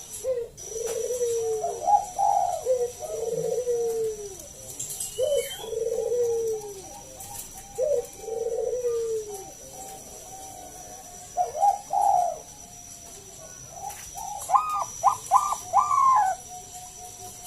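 A zebra dove (perkutut) of the Thai 'Bangkok' competition line cooing in repeated phrases: quick staccato notes, then long coos that fall in pitch. The bird is quieter for a few seconds about two-thirds of the way through, then starts another phrase with a run of rapid notes.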